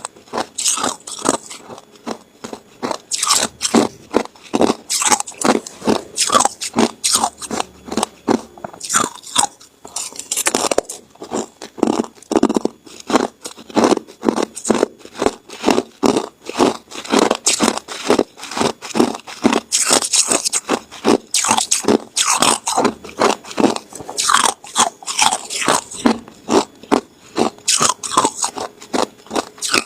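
Ice being bitten and chewed close to the microphone: a rapid, continuous run of sharp crunches, about two to three a second.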